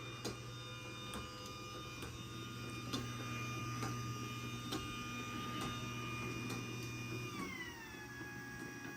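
Craftsman garage door opener's motor running through an opening cycle: a steady whine over a low hum, with a faint tick about once a second. Near the end the motor winds down, its pitch falling, and stops.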